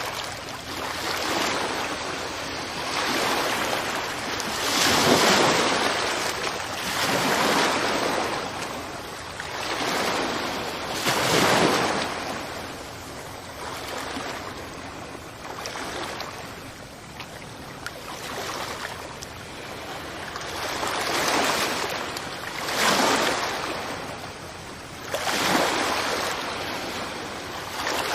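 Sea waves breaking on a beach and washing up the sand, one surge of surf every few seconds, the loudest about five and eleven seconds in.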